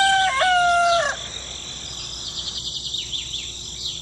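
A long, level-pitched bird call that ends about a second in, followed by a steady background of fast, repeated high chirping.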